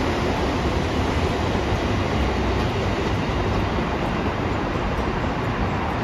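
Train running, a steady rumble and rush with no single clear event.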